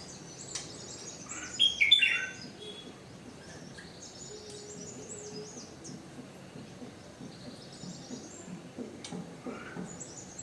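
Small birds chirping, with many short high-pitched calls overlapping throughout and one louder call about two seconds in.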